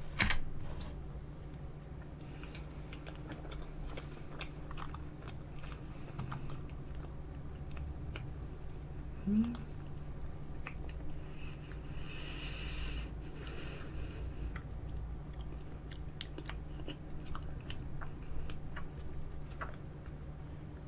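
Close-miked quiet chewing of soft tiramisu, with scattered small clicks and smacks. There is a brief hum from the eater about nine and a half seconds in.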